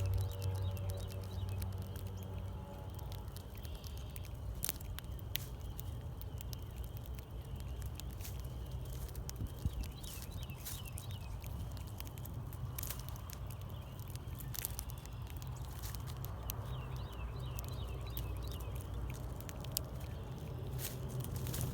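Small birds at a feeder giving many short, high, down-slurred chirps, with scattered sharp taps over a low steady rumble. A low droning hum fades out in the first couple of seconds.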